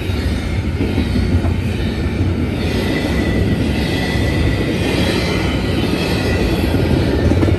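Freight train cars rolling past close by: a steady loud rumble of steel wheels on rail, with faint high wheel squeal above it.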